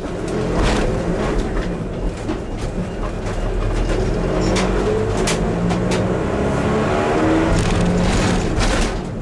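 Diesel passenger train's underfloor engines working hard as it pulls away, the engine note rising in pitch as it gathers speed, with sharp clicks from the wheels.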